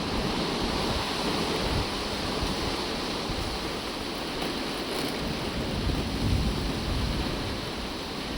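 Steady rush of heavy thunderstorm rain, with a low rumble swelling about six seconds in.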